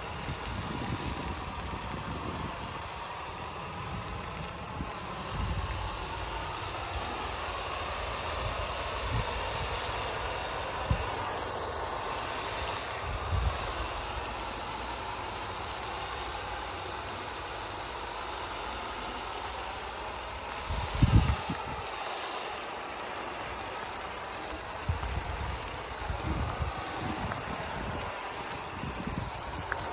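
A steady hiss with irregular low rumbling thumps, the sound of wind on the microphone, with a vehicle engine running faintly underneath.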